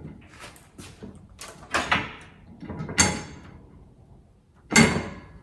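A run of clunks and scraping knocks, several separate hits, the loudest about three seconds in and another near the end.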